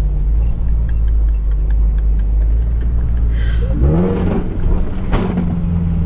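Engine of an off-road SUV heard from inside the cabin while driving on soft sand. It runs with a steady low drone, then revs up about four seconds in and holds the higher note, with a couple of knocks as the car rides over the sand.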